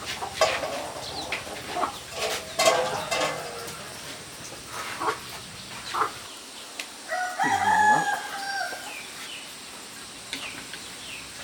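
A rooster crowing once, a long held call about two-thirds of the way through, with chickens clucking and short sharp knocks and clicks in the first few seconds.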